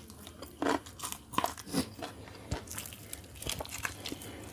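Close-miked biting and chewing of crisp-skinned roast chicken: irregular crunches and wet chewing sounds.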